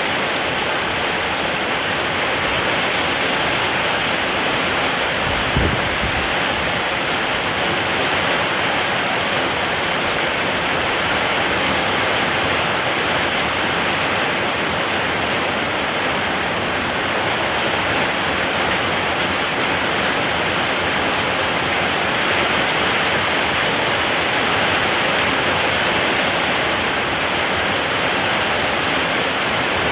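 Rain falling steadily, an even, unbroken hiss. A brief low thump comes about five and a half seconds in.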